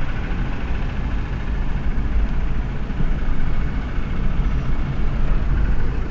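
A car's engine running, with a steady low rumble and a constant noise throughout.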